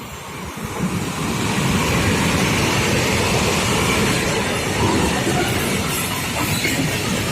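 Freight train rolling past, its noise building over the first second or two and then holding steady.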